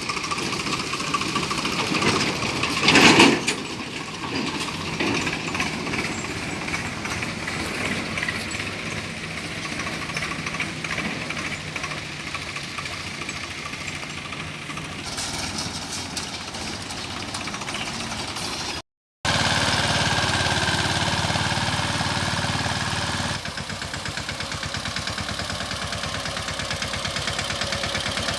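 Tractor engine running under load, with a loud burst about three seconds in. The sound drops out for a moment about two-thirds of the way through, then resumes steadier.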